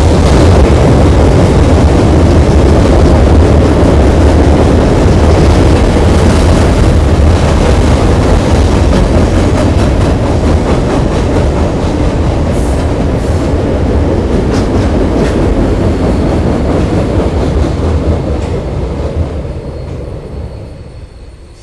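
Freight cars of a Norfolk Southern train rolling across a girder railway bridge just overhead: a loud, steady rumble of wheels on rail. It fades away over the last few seconds.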